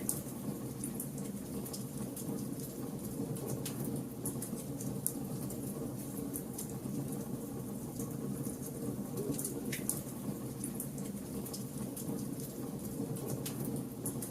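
Wood fire burning in a fireplace: a steady low sound from the flames with frequent small crackles and pops, and a sharper snap about five seconds in.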